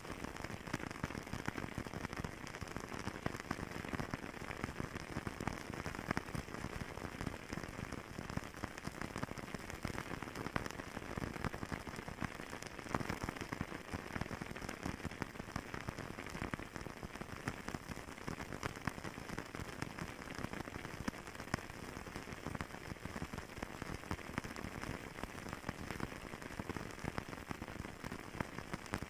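Fireplace crackling steadily: a dense run of small pops and snaps over a soft, even hiss.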